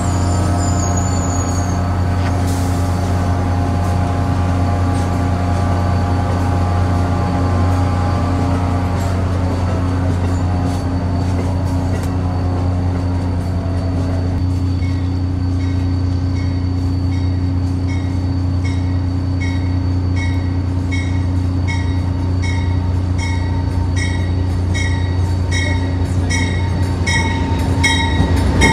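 Amtrak Northeast Regional train rolling slowly through the station with a steady low hum and a whine that falls in pitch as it slows. About halfway through, a locomotive bell starts ringing, a strike about once a second.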